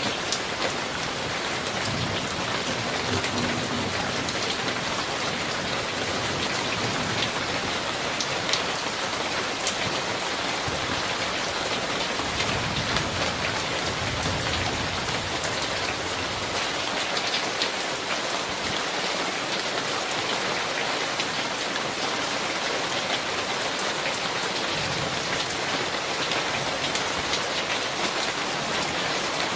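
Steady rain from a summer thunderstorm, recorded on a phone: a dense, even hiss with individual drops ticking sharply throughout.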